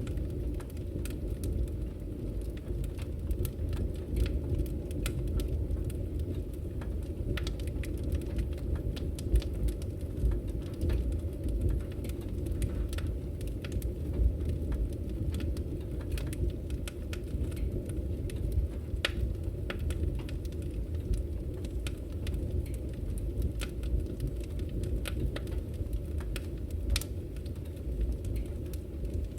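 Firewood burning in a fireplace, crackling with many small irregular pops over a steady low rumble.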